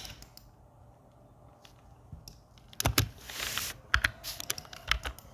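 Scattered clicks of a computer keyboard and mouse, starting after a quiet couple of seconds, with a short hiss about three seconds in.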